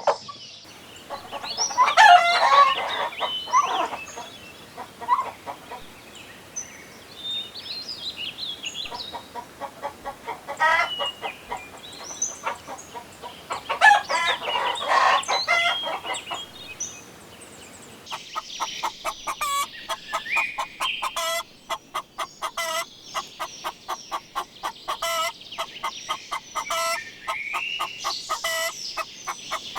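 Chickens clucking, with a rooster crowing twice: once about two seconds in and again around the middle. Later comes a denser run of quick, repeated clucks.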